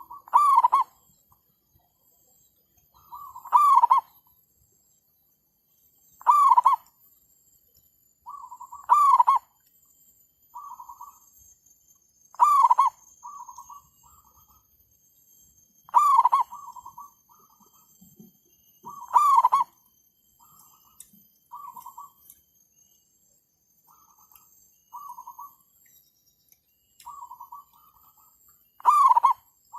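Zebra doves (merbuk/perkutut) cooing: a loud rolling coo about every three seconds, with fainter coos between them. Two birds are calling back and forth: a wild dove answering a decoy. The loud coos stop for about ten seconds after the middle, while the faint ones go on, then return near the end.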